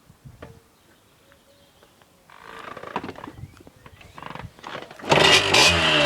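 Yamaha DT80 two-stroke single-cylinder dirt bike being started: a few clicks, then a spell of mechanical clatter, and about five seconds in the engine catches and runs loud, its pitch rising and falling as it revs.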